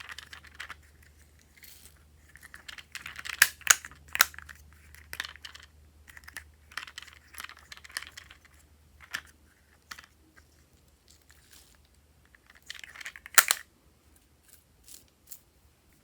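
Slime being squished and stretched by hand: sticky crackles and clicking pops of trapped air, in irregular bursts with a few sharp snaps a few seconds in and again near the end.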